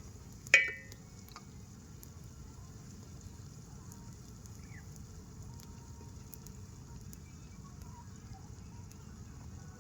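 A metal utensil clinks once against the cooking pot with a short ring about half a second in. After it comes a steady low rumble with faint scattered crackles from the campfire under the pot.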